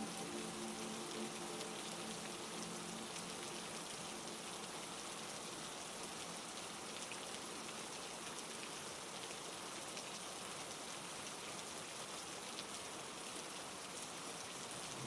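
Steady heavy rain: an even hiss of rainfall with faint, scattered drop taps. A soft held music tone fades out in the first second or two.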